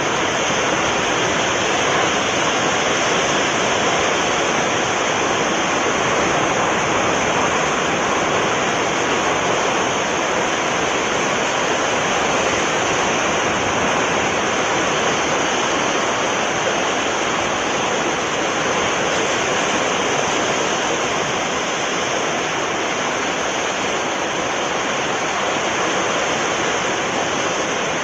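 Sea surf: a steady, even rush of breaking waves.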